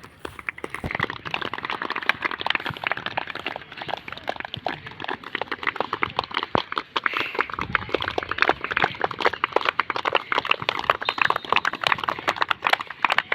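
A group of people clapping: dense, irregular applause that builds up in the first second, then keeps going steadily.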